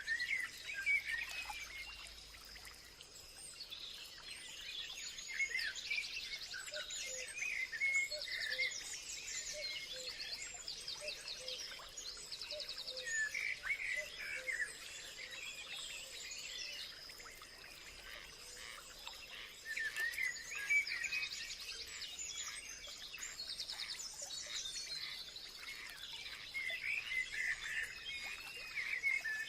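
Several songbirds chirping and warbling together, with repeated rapid high trills every few seconds over a steady high thin tone.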